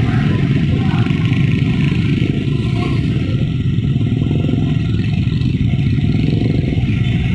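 Steady, loud road traffic: engines of motorcycles and other vehicles running close by, making a continuous low rumble.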